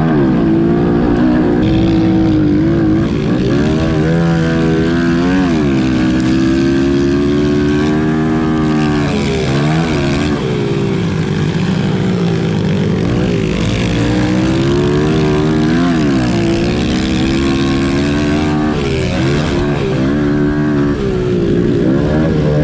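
Pit bike engines racing, the revs climbing and then dropping sharply again and again as the riders work the throttle and shift.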